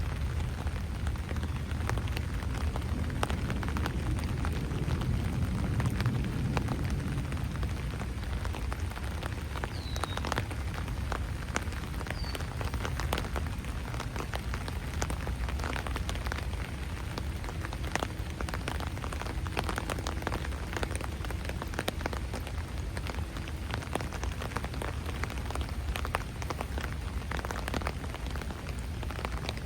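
Steady rain falling on wet ground and foliage, with a dense patter of individual drops. A low rumble underneath fades over the first several seconds.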